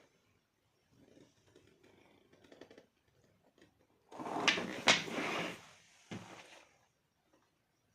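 Leather gun case being handled: soft rustling, then a louder burst of rustling about four seconds in with two sharp clicks, and a short knock a second later.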